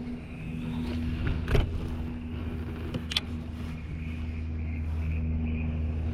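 Steady low motor hum, with two sharp clicks about one and a half and three seconds in.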